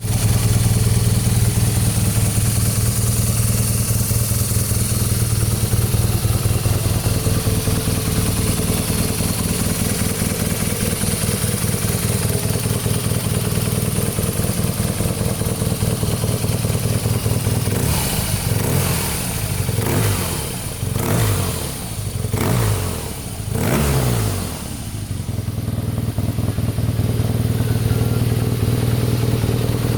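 BMW R nineT G/S's boxer twin engine idling steadily, then blipped through a run of five or six short revs past the middle before settling back to idle.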